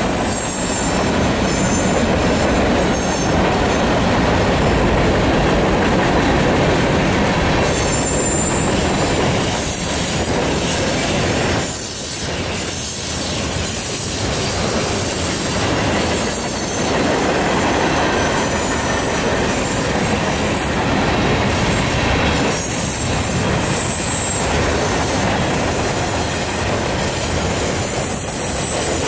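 Freight cars of a mixed freight train rolling past at close range: steady loud wheel-on-rail noise with clickety-clack, and a high wheel squeal that comes and goes.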